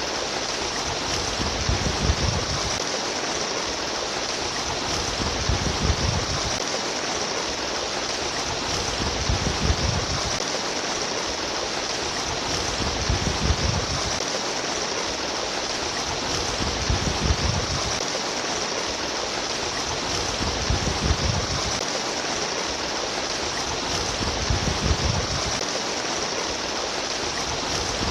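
A flowing stream of water rushing and splashing steadily, with a low rumbling swell that recurs about every four seconds.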